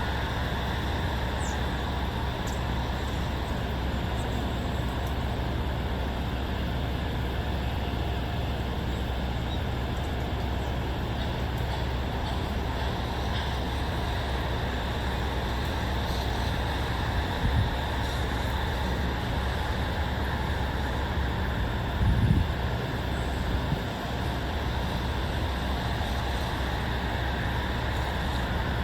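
Steady low outdoor background rumble, with two brief low thumps about two-thirds of the way through.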